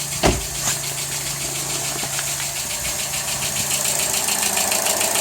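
Car engine running with a rapid, regular knocking under the bonnet, a noise whose origin the owner cannot trace. A single thump sounds just after the start.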